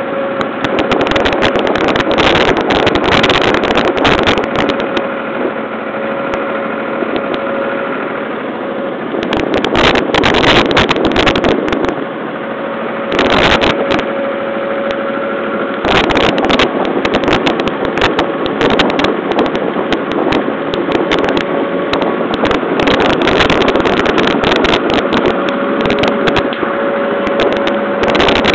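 Small river ferry boat's engine running steadily under way.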